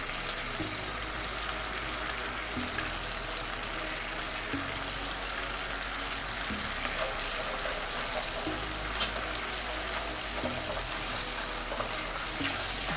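Sauce sizzling steadily in a pan of hot oil: garlic, ketchup, vinegar and bottled sauces cooking together with brown sugar. A single sharp click about nine seconds in.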